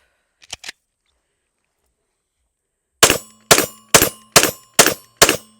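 Ruger-57 pistol in 5.7×28mm firing six shots in quick succession, about two a second, each a sharp crack with a short ring-out. Two faint clicks of handling come about half a second in, before the shots.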